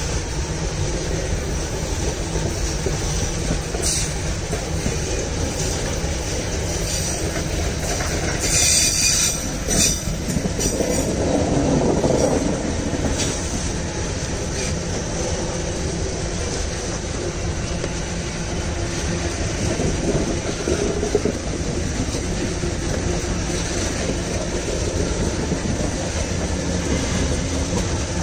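Loaded iron-ore gondola wagons of a long freight train rolling past, a steady rumble and clatter of steel wheels on the rails. About nine seconds in, a brief high-pitched wheel squeal.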